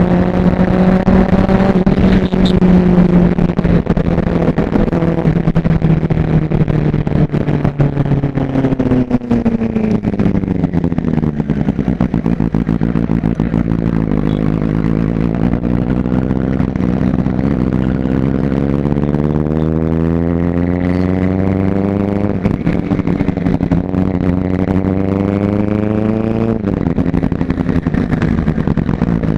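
Superbike engine running under way: its pitch sinks as it slows, then climbs steadily under acceleration for about ten seconds before dropping suddenly near the end with an upshift.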